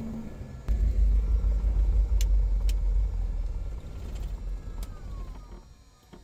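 Light aircraft engine and propeller of a Cessna 177 Cardinal, a deep rumble that jumps louder about a second in. A few clicks follow, then it winds down with a falling tone and fades out near the end.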